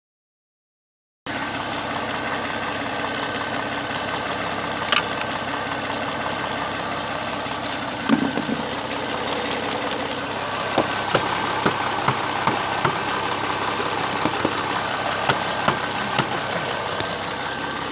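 Car engine idling steadily, its air intake refitted after water mist was sprayed in to decarbonize it. The sound begins about a second in, and from about halfway scattered sharp clicks sound over the running engine.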